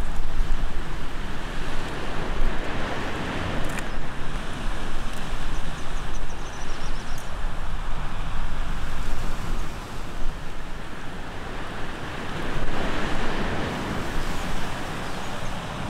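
Gusty wind buffeting the microphone over the steady rush of surf, swelling and easing without a regular pattern.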